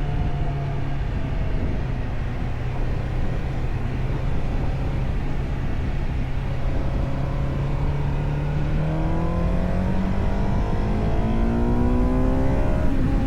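Suzuki GSX-R600 inline-four engine running under way at a steady pitch, its note then climbing steadily over the last few seconds as it accelerates.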